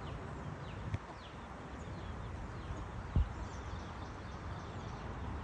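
Steady rain with hens nearby: a constant hiss of falling rain under short, high, falling chirps, and one sharp thump about three seconds in.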